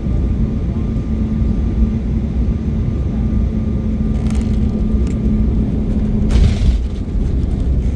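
Steady low rumble of an Embraer E175 jet airliner heard from inside the cabin, with a constant hum that stops about three-quarters of the way through, just as a brief hiss rises.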